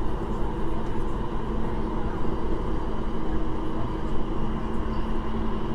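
Kinki Sharyo–Kawasaki electric multiple unit train running along the line, heard from inside the passenger car: a steady rumble with a steady motor hum.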